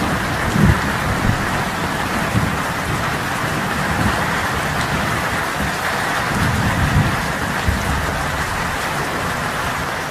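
Heavy rain pouring, a dense steady hiss of drops striking leaves and splashing on wet ground, with a low rumble underneath now and then.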